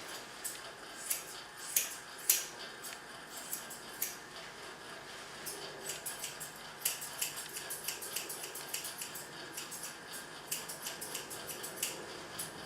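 Grooming scissors snipping the fur on a dog's face. Sharp snips come a few at a time at first, then in quick runs from about halfway through.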